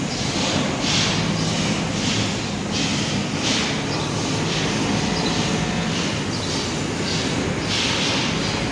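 Steady machine drone with a low hum, overlaid by rhythmic hissing strokes about once a second.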